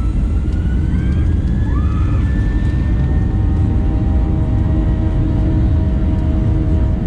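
Boeing 737-800's CFM56 turbofan engines at takeoff power heard from inside the cabin: a loud, steady rumble with a thin whine that rises in pitch over the first few seconds, then holds steady.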